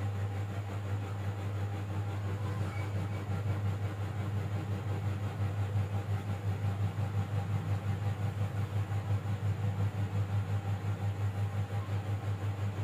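A steady low hum with a quick, regular throb in its loudness.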